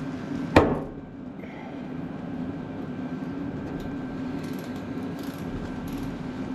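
A single sharp metal knock with a short ring about half a second in, from the Ford 8N's six-volt starter motor as it is taken apart, over a steady low hum.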